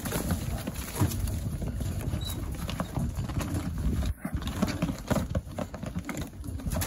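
Young racing pigeons fluttering and scrabbling as they are let into the loft: a rapid, irregular run of wing flaps and knocks.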